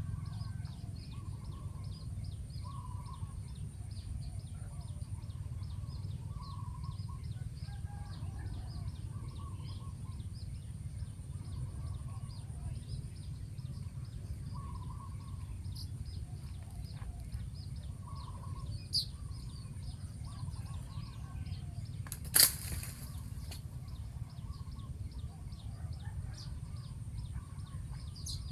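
Spotted doves cooing, soft phrases repeating every second or two over a steady high insect whine and fast ticking. A low rumble runs underneath. A sharp click comes about 22 seconds in.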